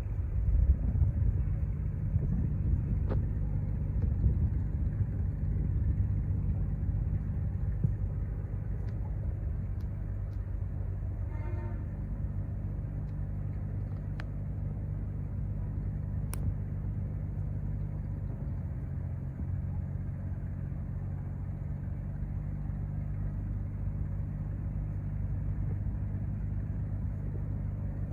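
Cargo ship's engine giving a steady low hum, rougher and slightly louder for the first several seconds.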